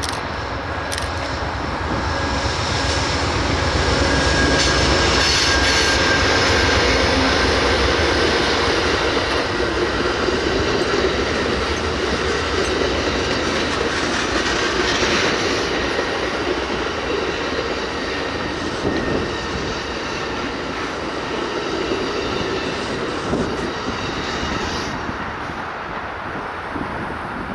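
A train rolling past on steel rails, its wheels running with a steady rumble and a thin high squeal. It grows louder over the first few seconds, then slowly fades as it moves on.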